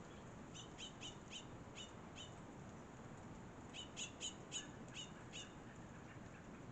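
A small songbird chirping in two quick runs of short, sharp chirps, each run about half a dozen notes, with a pause of about a second and a half between them.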